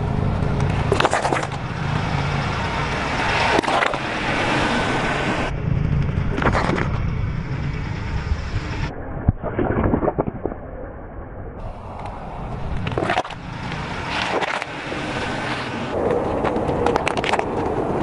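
Car tyre rolling slowly over objects and crushing them: a low rumble of the tyre on the ground with repeated crunches and sharp cracks, in several short cuts.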